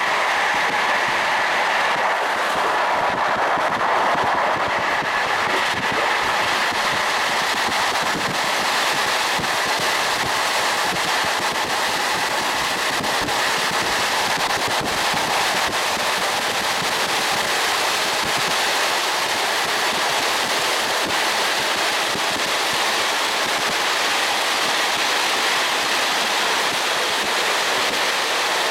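Moving train heard from a carriage window: a steady rushing noise of wheels on the rails and passing air, with a faint whine that fades after the first few seconds.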